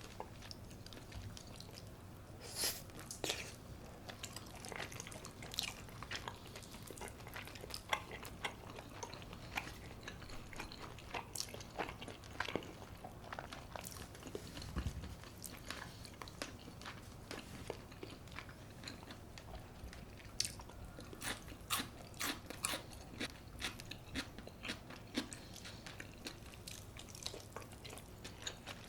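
Close-miked biting and chewing of crunchy food, with many short, irregular crunches that come thicker toward the end.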